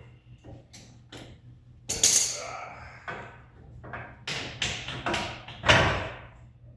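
A run of knocks and clattering from parts and tools being handled during a car teardown, with the heaviest knocks about two seconds in and just before the end.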